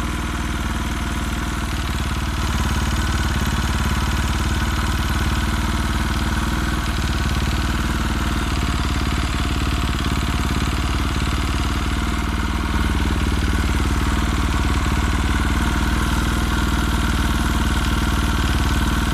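KTM RFS four-stroke single-cylinder motorcycle engine running at idle with a knocking sound, getting slightly louder about two and a half seconds in and again about two-thirds of the way through.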